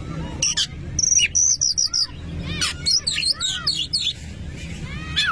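Oriental magpie-robin (kacer) singing a varied, rapid song of whistles and chirps, including a quick run of repeated high notes about a second in, over a low steady background rumble.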